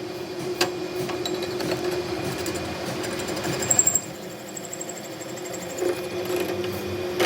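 A workshop machine running steadily with a rapid mechanical clatter and a steady hum, with a brief high-pitched squeal just before four seconds in.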